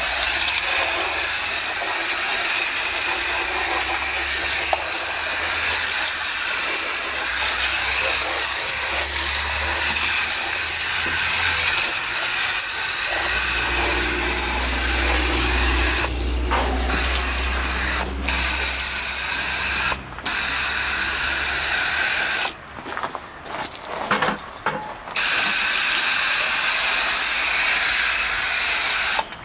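Foaming coil cleaner sprayed onto an air-conditioner condenser coil: a steady hiss of spray that stops briefly several times in the second half as the trigger is let go.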